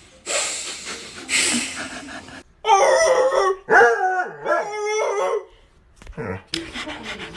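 Rasping, rubbing noise, then about three seconds of loud, dog-like howling and yelping cries that rise and fall in pitch.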